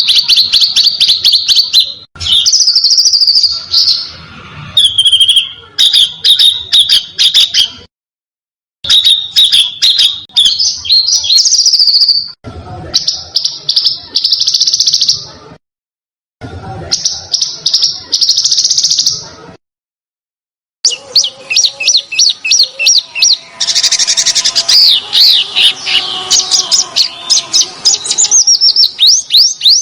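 Spliced compilation of songbird song used as a 'masteran' tutor track: rapid series of sharp, high chips and short whistled trills, several notes a second. The clips change with abrupt cuts to silence about 8, 16 and 20 seconds in.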